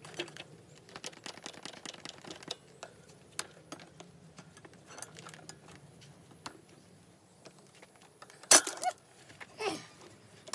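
Hand tools working on metal parts: a run of light clicks and clinks, then a sharp metallic clank about eight and a half seconds in, followed a second later by a short falling scrape.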